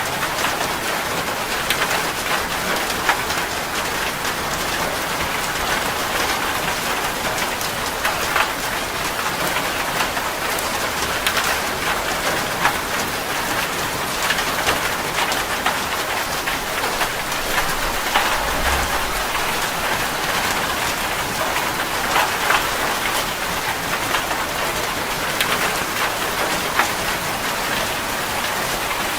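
Heavy rain falling on a metal roof: a steady hiss dotted with many sharp taps of individual drops.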